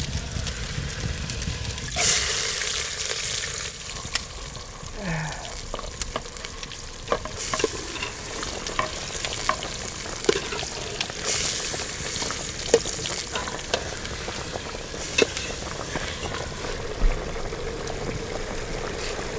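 Wood fire crackling with many sharp pops under a cooking pot, with surges of sizzling as chopped tomatoes go into the hot pot.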